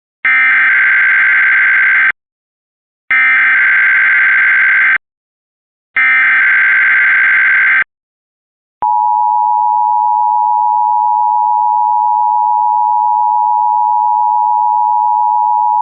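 Emergency Alert System header: three bursts of digital SAME data tones, each about two seconds long with short gaps between, then the steady two-tone EAS attention signal starting about nine seconds in. This marks the start of an Emergency Alert System test message.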